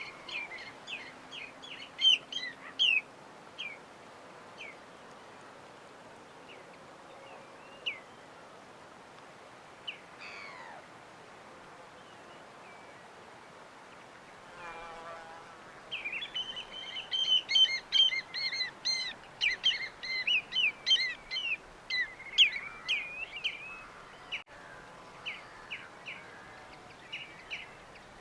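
Small birds chirping in quick runs of short notes, sparse at first and densest in a burst about halfway through, over a steady background hiss.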